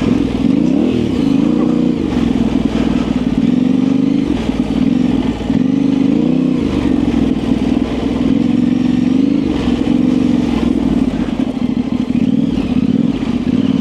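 Yamaha Ténéré 700's parallel-twin engine running through an aftermarket high exhaust as the bike is ridden, the revs rising and falling several times with the throttle.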